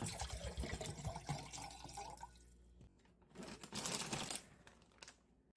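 Water running and splashing in two stretches: a longer one at the start and a short burst about three and a half seconds in.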